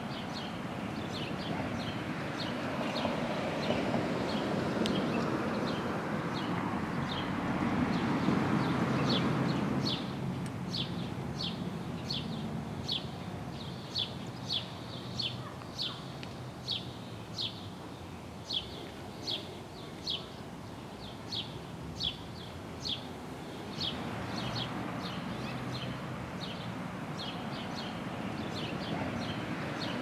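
A bird chirping over and over, short falling chirps at about three every two seconds, over a low steady background rumble that swells around eight seconds in.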